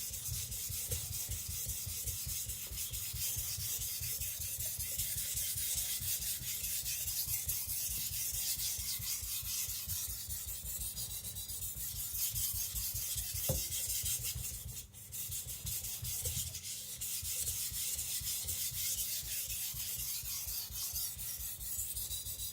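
A carbon-steel nakiri blade being ground back and forth on a Naniwa Professional water stone, a steady gritty scraping of many strokes with a brief let-up about fifteen seconds in. The sharpener is taking more metal off one side of the edge.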